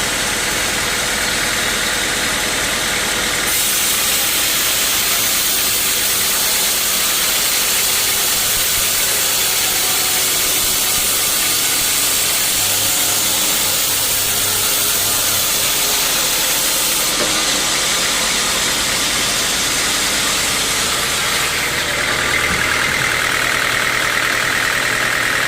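Sawmill machinery running steadily with a strong hiss. The hiss turns brighter and louder a few seconds in and settles back about two-thirds of the way through.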